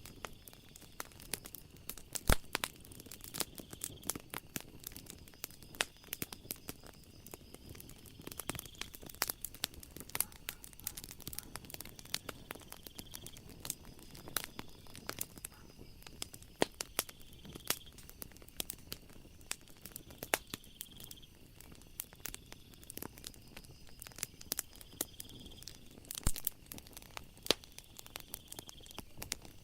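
Wood fire crackling in a fireplace: irregular sharp snaps and pops, several a second, over a soft low hiss. A faint high steady trill of night insects runs beneath it.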